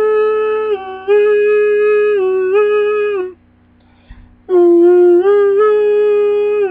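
A solo voice singing a wordless a cappella melody in long held notes that step up and down in pitch, breaking off for about a second midway before starting again.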